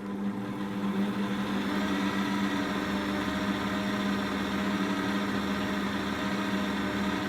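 Parkside bench pillar drill's motor running steadily with a constant hum, spinning a bit that wobbles off true because it is not seated all the way up in the chuck.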